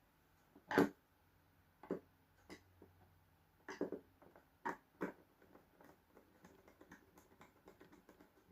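Sharp clicks and knocks of hand tools and cable being handled while a wire is fitted into an electrical terminal: about six separate knocks in the first five seconds, the loudest about a second in, then a run of faint small ticks.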